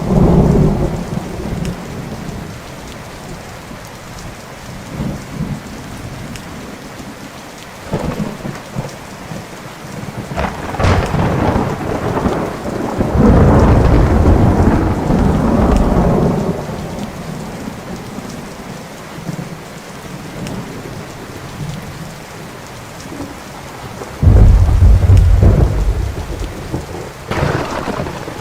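Thunderstorm: steady rain with repeated thunder. A long rolling rumble swells in the middle, and a sudden loud low clap breaks out near the end, followed by a sharper crack.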